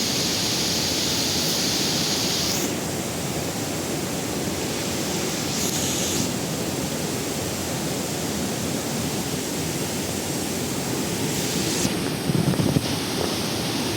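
Steady rush of falling water from a jungle waterfall, with a high hiss over it that drops out about three seconds in and comes back briefly twice. A few short knocks sound near the end.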